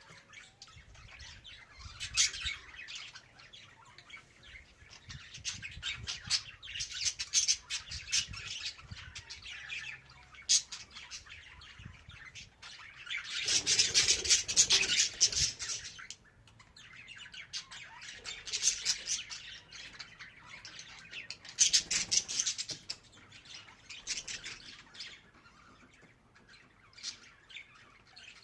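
Budgerigar chirping and warbling in bursts of rapid chatter, loudest and densest in the middle of the stretch, with quieter pauses between bursts.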